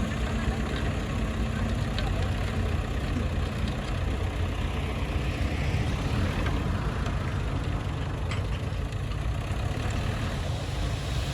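Bulldozer's diesel engine running steadily at a low, even pitch.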